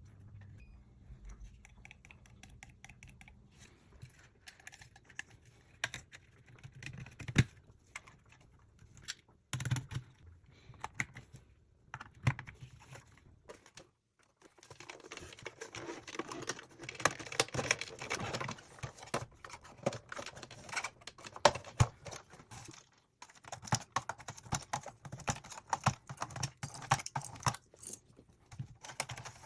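Irregular clicking and tapping of small hard parts being handled: a few sharp knocks in the first half, then dense, rapid clicking from about halfway through.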